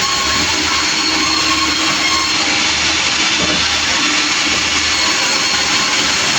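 Sawmill machinery running steadily: a loud, even mechanical noise with a few faint steady tones.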